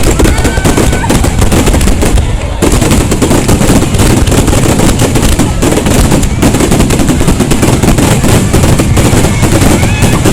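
Star mine fireworks barrage: a dense, unbroken run of loud shell bursts in quick succession, with a few short whistles rising through it.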